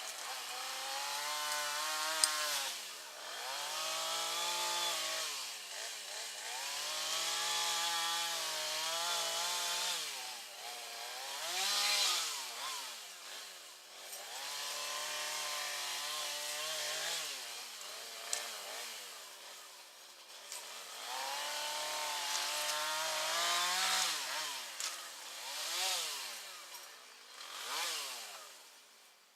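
Two-stroke chainsaw running through a series of cuts, held steady for stretches of a few seconds with the engine revving up and dropping back between them; the saw dies away near the end.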